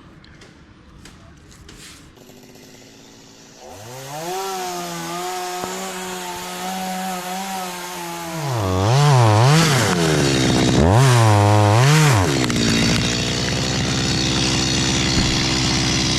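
Stihl chainsaw engine starting up about a quarter of the way in and running at a steady speed. It is then revved up and down twice, loudest there, and settles to a steady lower run.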